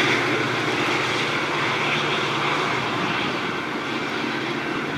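A Metra commuter train going away along the line, its steady rumble slowly fading.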